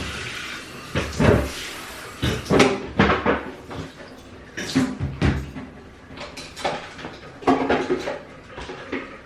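Irregular knocks and clatters of things being handled and set down, with cabinet doors opening and closing, in a small, echoing bathroom.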